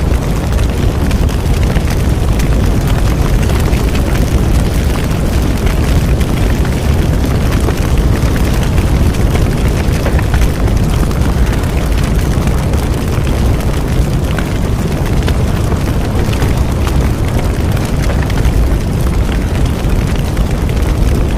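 A large bonfire burning: a steady low rumble of flames with many small crackles and pops throughout.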